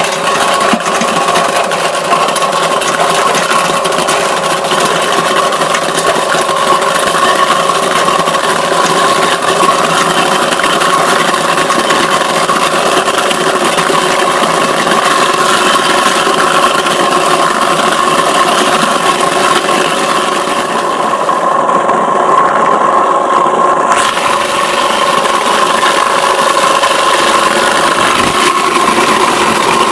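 Homemade apple crusher driven by an old Zarya-2M washing-machine electric motor, running steadily with a constant hum while apples clatter and are shredded inside it.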